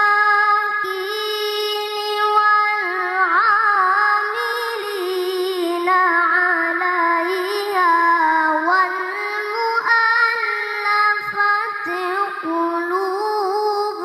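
A child qari chanting Quran recitation in the melodic tilawah style: one high voice holding long, ornamented notes that wind up and down in pitch.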